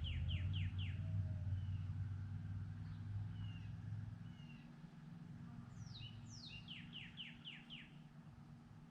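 A songbird singing two phrases of quick down-slurred notes, one at the start and another about six seconds later, over a low vehicle rumble that fades away over the first few seconds.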